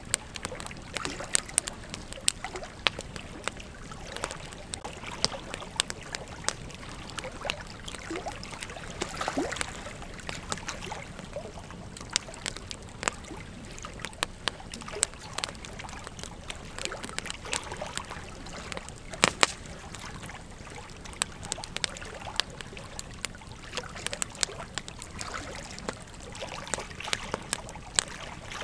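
Campfire burning, with irregular crackles and sharp pops from the wood over a steady low hiss; one loud pop about 19 seconds in.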